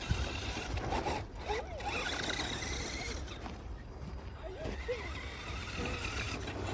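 Electric RC cars' motors whining, the pitch wavering up and down as the throttle changes, with a low rumble underneath.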